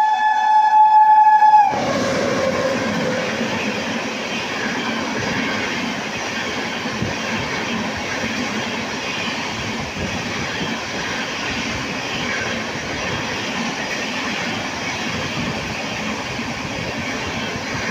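A superfast express train sounds its horn in one steady note for under two seconds, then rushes through at high speed with a continuous rumble and wheels clattering over rail joints.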